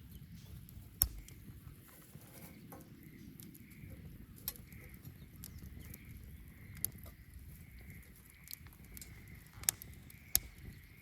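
Wood bonfire burning: a steady low rush of flames with scattered sharp crackles and pops from the burning wood, the loudest about a second in and twice near the end.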